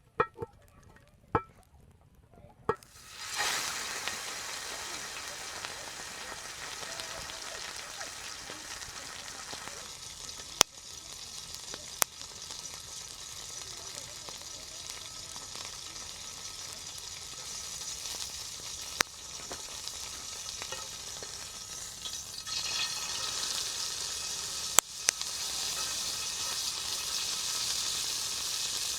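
Food sizzling in a hot pan, starting about three seconds in after a few light clicks, with occasional sharp pops, and getting louder near the end.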